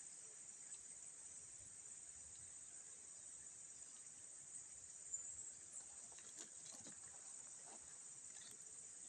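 Faint, steady high-pitched insect drone from crickets or cicadas, with a few faint ticks about five to seven seconds in.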